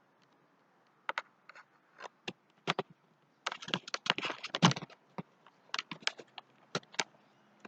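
Footsteps crunching on dry ground: an irregular run of sharp crackling clicks, thickest about halfway through.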